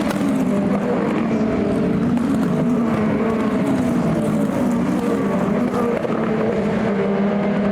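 Race car engines running at fairly steady revs, more than one engine's note overlapping, with the pitch drifting only slightly.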